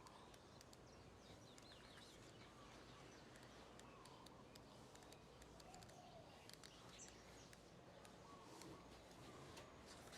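Near silence: faint background hiss with a few faint bird chirps and small clicks.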